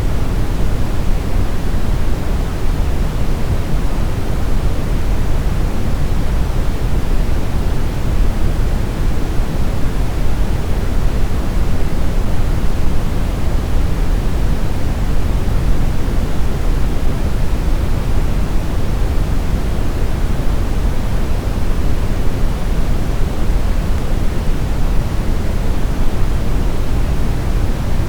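Brown noise: a steady, deep, rumbling hiss with most of its weight in the bass and little treble, unchanging throughout.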